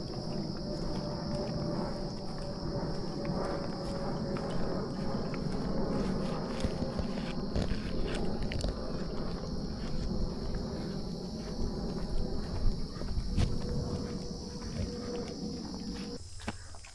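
Footsteps on a park trail as short scattered clicks over a low rumble, with a steady high drone of insects, crickets or similar, behind them. A faint hum slowly falls in pitch throughout. About a second before the end the footsteps and rumble cut off abruptly, leaving the insect drone.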